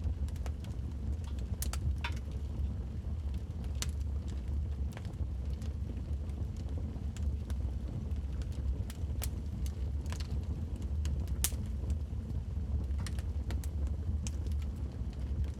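Wood fire burning in a fireplace: a steady low rumble with irregular sharp crackles and pops from the burning logs, roughly one every second or so.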